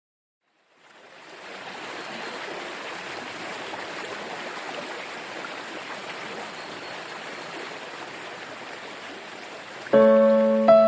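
Flowing stream water fading in after a brief silence and running steadily. About ten seconds in, piano notes enter, struck twice in quick succession.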